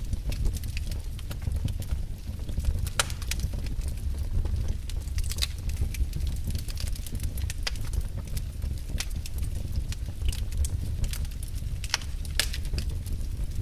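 Fire burning in a fireplace: a steady low sound of the flames with irregular sharp crackles and pops.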